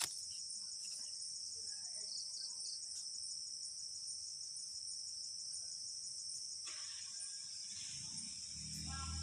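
Night insect chorus: crickets trilling steadily in a high, even band. Near the end a low steady drone fades in underneath.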